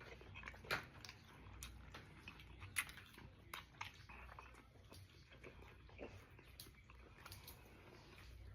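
A person chewing food from a seafood boil close to the microphone: a run of small wet mouth clicks, two louder ones about one and three seconds in.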